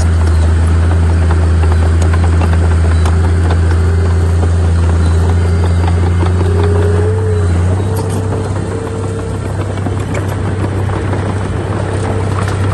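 Heavy diesel engine of earthmoving machinery running steadily with a deep drone. About two-thirds of the way through, the drone eases and a higher whine steps up in pitch.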